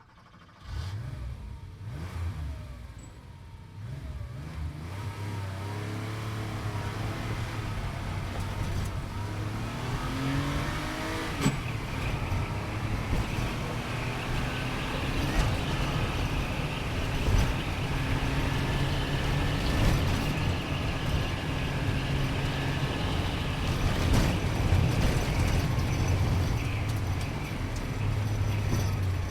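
Sports car engine accelerating, its revs climbing in several rising pulls, then running steadily at speed with the pitch rising and falling a little.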